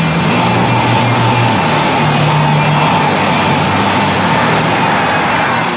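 A train passing close by at speed: a loud, steady rushing roar with a steady whine over it.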